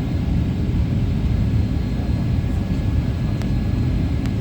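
Steady cabin rumble inside a Boeing 737-800 airliner coming in to land: engine and airflow noise, with a couple of faint clicks near the end.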